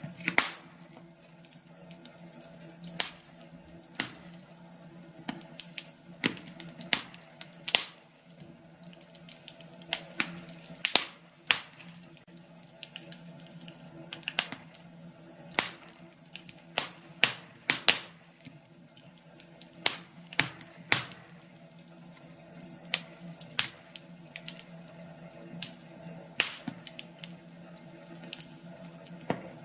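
Wood fire crackling in a fireplace: irregular sharp pops and snaps from the burning logs, over a soft steady hiss.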